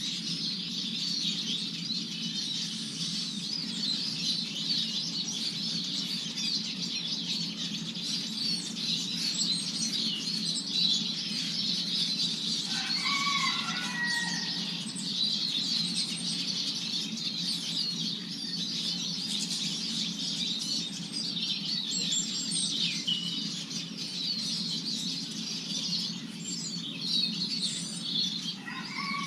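Siskins twittering and chattering continuously in high, rapid chirps. A lower call of a few falling notes from another bird comes about halfway through and again at the end.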